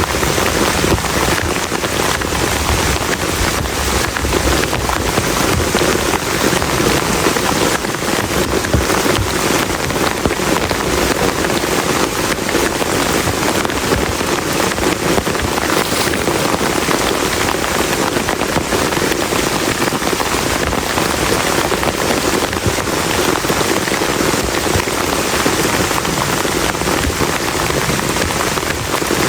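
Heavy rain falling steadily, a dense, even patter of drops striking a plastic camping tarp close overhead.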